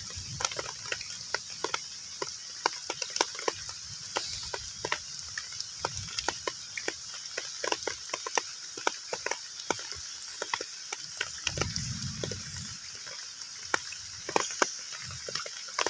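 Heavy rain falling on a pond: a steady hiss with many separate drops plinking into the water. A brief low rumble swells about three quarters of the way in.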